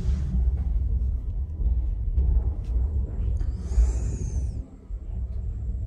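Passenger train starting out of the station, heard from inside a sleeping-car compartment: a steady low rumble of the moving carriage, with a brief high hiss about four seconds in.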